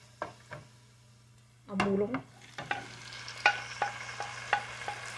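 Raw ground pork going from a plate into a hot frying pan of oil, onion and garlic, and starting to sizzle about two and a half seconds in; the sizzle holds steady after that, broken by a quick run of sharp clicks.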